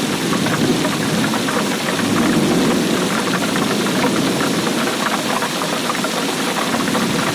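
Heavy rain falling steadily: a dense, unbroken mass of drops striking a surface.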